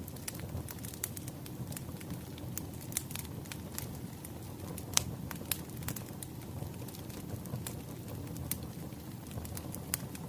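Wood fire crackling, with scattered sharp pops over a low steady rumble; the loudest pops come about halfway through and near the end.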